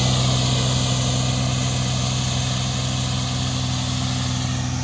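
Toro fairway mower's engine running steadily as it mows, slowly getting a little quieter.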